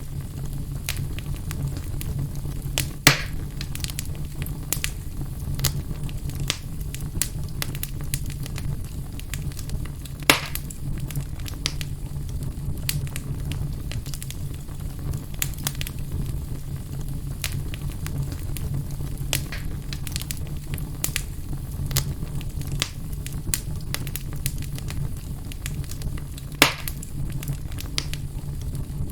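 Fire burning in a fireplace: a steady low rumble of flames with frequent small crackles, and three louder pops, the first about three seconds in, one near the middle and one near the end.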